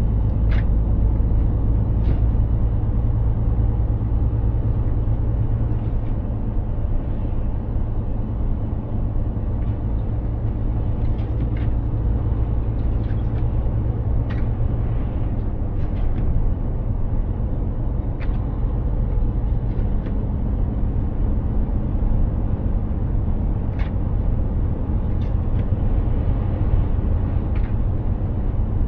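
Mercedes-Benz Actros 2763 truck's six-cylinder diesel engine running steadily under way, with a low drone and tyre and road rumble. Short sharp clicks and ticks come every few seconds.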